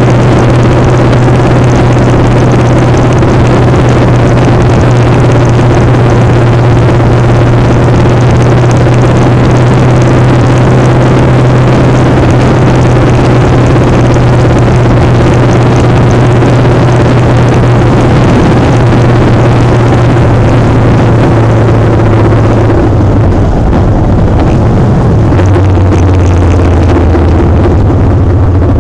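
Motorcycle engine running at a steady speed under heavy wind noise on the microphone. About 23 seconds in the engine note drops to a lower pitch.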